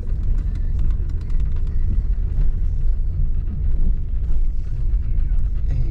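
Steady low rumble of a Pontiac Firebird driving, heard from inside the cabin.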